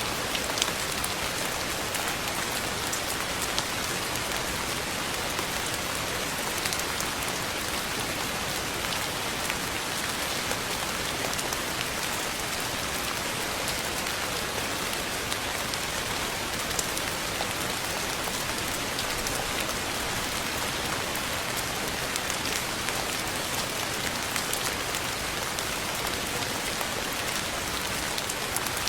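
Steady rain falling on a surface: an even hiss with scattered small drop ticks, holding constant.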